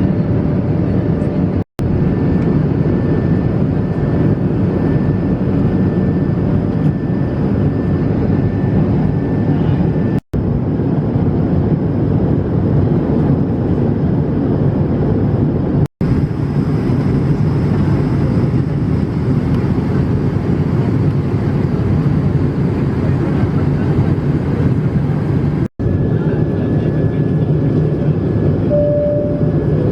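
Steady cabin noise of an Airbus A220-300 in flight, a deep, even rumble and hiss from its two Pratt & Whitney PW1500G geared turbofans and the airflow. It breaks off for a split second four times, and a short tone sounds near the end.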